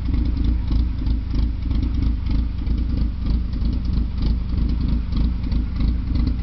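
Toyota AE86 Corolla engine idling steadily with its exhaust taken off, a constant low, uneven rumble.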